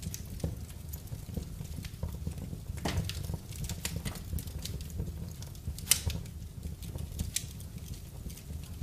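Wood fire crackling in a fireplace: irregular sharp pops and snaps over a steady low rumble, with one louder pop about six seconds in.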